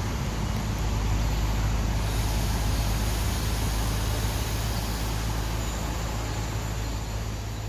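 A heavy road vehicle, likely a truck, with its engine running deep and steady along with road noise, slowly fading toward the end.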